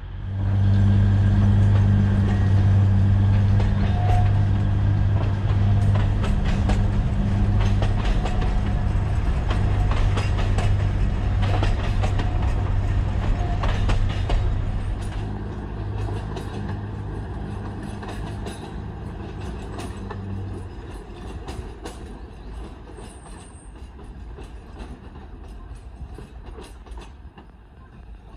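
Alishan Forest Railway diesel train passing close by: a steady low engine drone, with the wheels clicking over the rail joints as the carriages go past. The drone stops about two-thirds of the way through, leaving fainter rolling noise that dies away.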